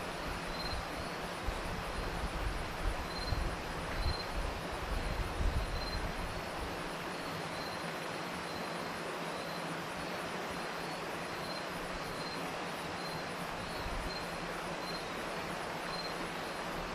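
A river flowing steadily, with crickets chirping over it: one regular chirp repeating a little more than once a second and a faster, high-pitched insect pulsing. Low rumbling gusts come and go during the first six seconds or so.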